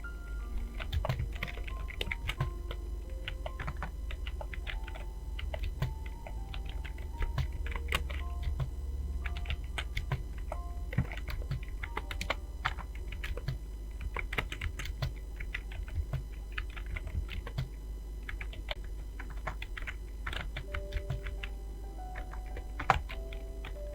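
Fast, continuous typing on a computer keyboard: an irregular patter of key clicks, with one harder keystroke near the end. Faint background music with held notes and a low steady hum sit under it.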